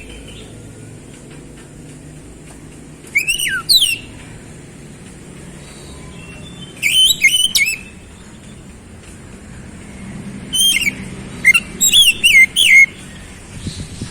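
Oriental magpie-robin (kacer) singing: three bursts of loud, rapidly sweeping whistled notes, about a second in length at first and longer near the end, with short pauses between.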